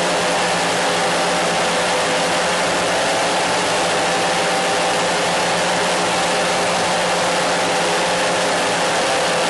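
A steady, loud hiss with several steady humming tones beneath it, which shift slightly just after the end.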